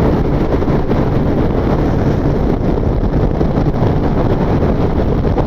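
Steady wind rush on the microphone mixed with motorcycle engine and road noise while riding at speed.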